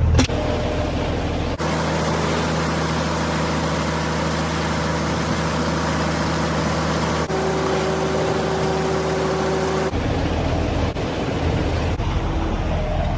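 Semi truck's diesel engine running steadily. The sound changes abruptly about a second and a half in and again near ten seconds.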